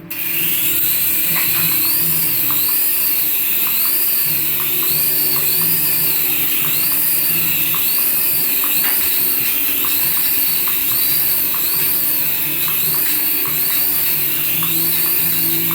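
A battery-powered toy's electronic sound effects: a high warbling whine that rises and falls about twice a second over a simple tinny tune.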